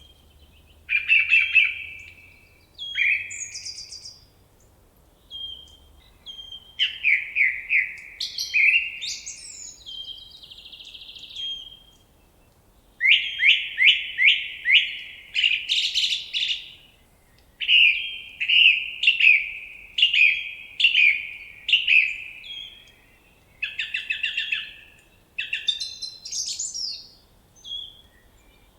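Songbird singing: phrases of quick, rapidly repeated chirping notes, each phrase lasting about a second, separated by short pauses.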